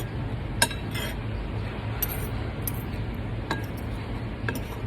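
Cutlery clinking against a plate while eating: about six separate sharp clinks, the loudest about half a second in, over a steady low hum.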